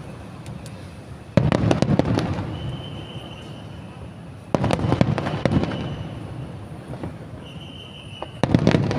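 Aerial fireworks bursting: three loud booms about three seconds apart, each fading over a couple of seconds with crackling.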